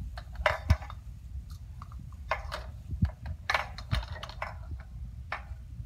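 Plastic toy doctor's-kit instruments being handled: scattered light clicks and short rustles over a low steady hum.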